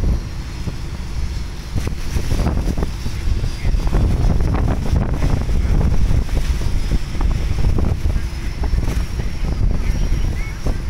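Strong wind buffeting the microphone in gusts, with rough sea noise beneath.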